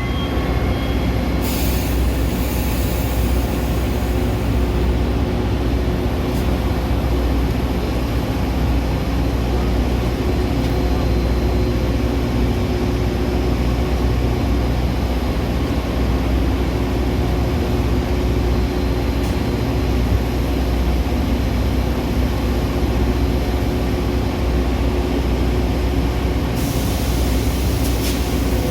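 Metra commuter train running: a steady low rumble with a constant hum, and a hiss that comes in about a second and a half in and drops away near the end.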